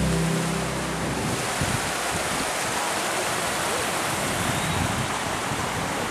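Steady rushing water. Background music cuts out about a second in.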